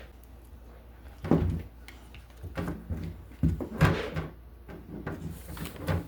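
Irregular thumps, knocks and scuffling from a man play-wrestling with a cat, with the sharpest knocks about a second in and around four seconds in.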